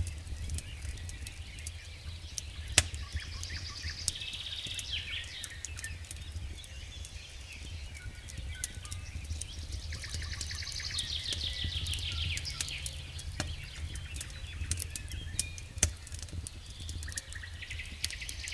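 Campfire crackling with irregular sharp pops, the loudest about 3 seconds in and near 16 seconds, over a steady low rumble. Songbirds sing trills in the background, twice in longer phrases.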